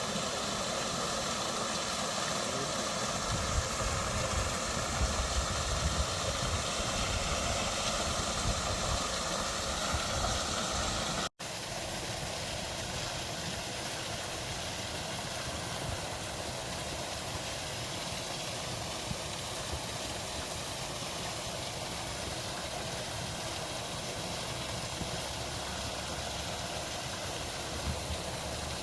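Steady rushing roar of a waterfall, an even hiss spread from low to high pitches, with some low rumble in the first stretch; it cuts out for an instant about eleven seconds in and resumes unchanged.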